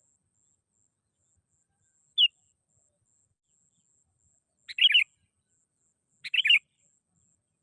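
Sooty-headed bulbul (kutilang) calling: a single short note about two seconds in, then two fuller chattering phrases about a second and a half apart, with silence between.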